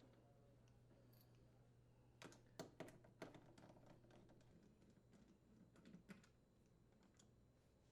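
Faint scattered clicks and ticks of a Torx screwdriver backing screws out of a dishwasher's inner door panel, clustered about two to three seconds in and then sparser until about six seconds.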